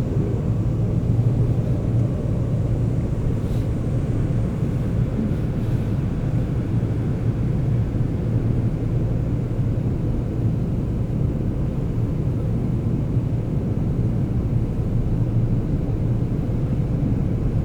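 Seoul Subway Line 9 express train running between stations, heard from inside the passenger car: a steady low rumble of wheels on track and traction motors.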